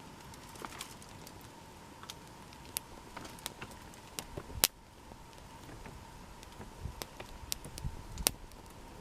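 Wood crackling and snapping as the campfire is lit: scattered sharp pops, with one loud snap about halfway through.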